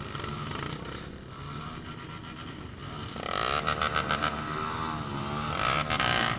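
A motor vehicle engine running steadily; about three seconds in, a louder rattling sound joins it.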